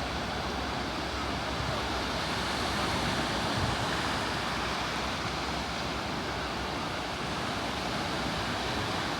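Sea surf washing onto the shore in a steady, even rush.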